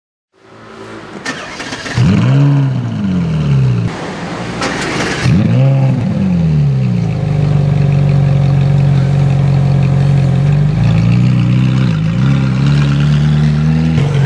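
Ferrari 458's V8 being started: twice in the first few seconds the revs flare up and fall back, then it settles into a steady idle, with a couple of light blips of throttle near the end.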